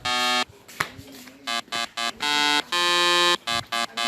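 An electronic tune of buzzy, beeping notes. It plays a few short notes, pauses about half a second in, then goes on with more short notes and one longer held note near the end.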